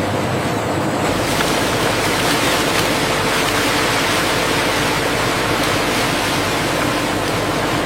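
Steady rushing of water, loud and even, filling out lower in pitch about a second in.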